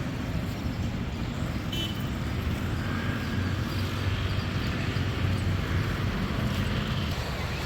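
Sea surf breaking on a beach: a steady, even rush of noise with a strong low rumble.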